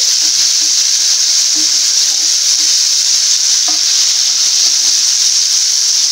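Garlic cloves, shallots, tomato and curry leaves sizzling steadily as they sauté in sesame oil in a nonstick pan, stirred with a wooden spatula that scrapes and taps lightly now and then.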